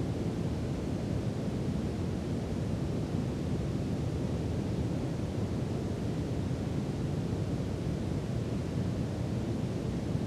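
Brown noise for sleep: a steady, deep rushing hiss, heaviest in the bass and dull in the treble, with no change.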